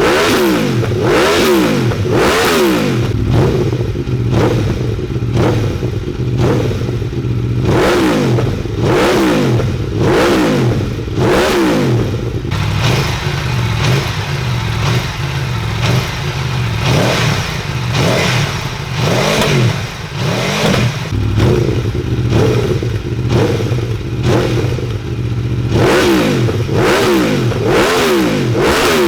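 Aprilia Tuono V4 1100 Factory's V4 engine through an Akrapovic exhaust with the baffle (dB killer) removed, revving hard with its pitch climbing and dropping again and again, then running steadier for a stretch before more rises and drops near the end.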